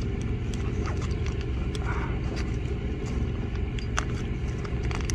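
Portable generator engine running steadily, a low even hum, with scattered light clicks and taps over it.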